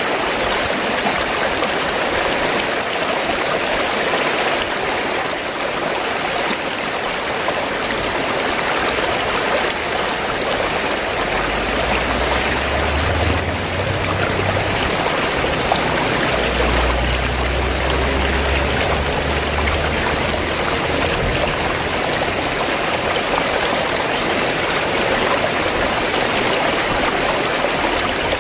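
Fast-flowing stream water rushing and gurgling steadily. A low rumble rises under it about twelve seconds in and fades out about eight seconds later.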